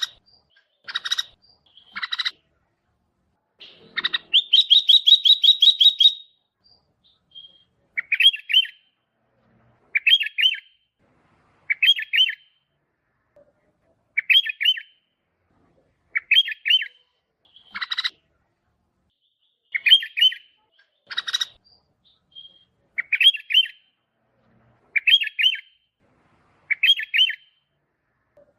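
Sooty-headed bulbul (kutilang) singing: short bubbling phrases of a few quick notes, repeated about every two seconds, with one longer rapid run of notes about four seconds in.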